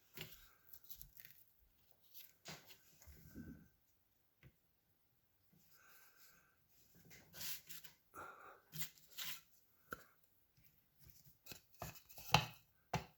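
Small scale-model wagon parts being handled and fitted together by hand: scattered light clicks, taps and rustling, with the sharpest knock about twelve seconds in.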